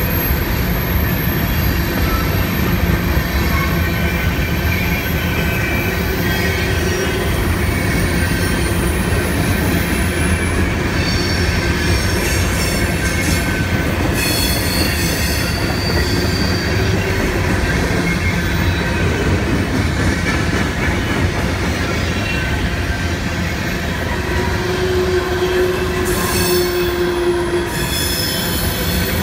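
Empty covered hopper cars of a CSX grain train rolling past, a steady rumble of wheels on rail with high-pitched wheel squeal coming and going, strongest about halfway through and again near the end.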